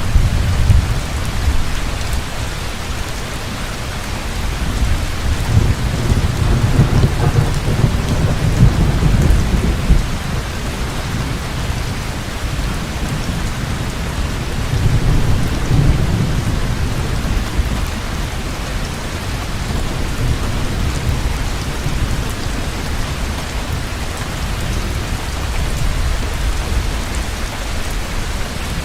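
Heavy rain falling steadily with rolling thunder: a long low rumble builds about five seconds in and fades around ten seconds, and a shorter one swells around fifteen seconds.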